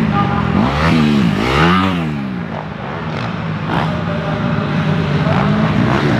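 Motocross bike engines revving hard and backing off as the bikes race by, with a sharp rise and fall in pitch about a second and a half in.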